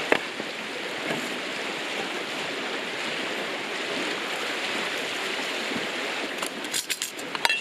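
River water rushing steadily, with a few sharp clicks and clinks near the end.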